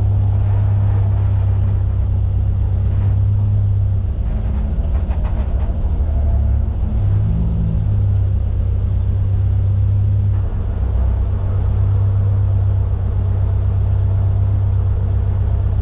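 BMW E30's M20B25 inline-six engine running steadily at low revs, heard from inside the car, with no revving up or down.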